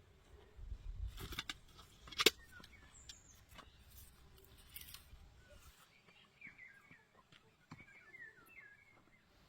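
Small birds chirping repeatedly, with a few knocks about a second in and one sharp click just over two seconds in.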